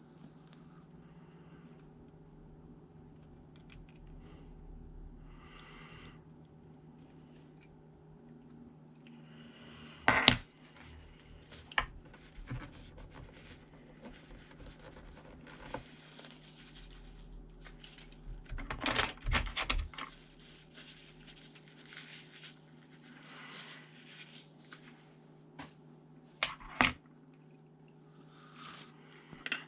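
Hands working on a laptop's parts: scattered clicks, taps and scraping of small plastic and metal pieces, with a sharp knock about ten seconds in and a cluster of handling noises around twenty seconds, over a steady low hum.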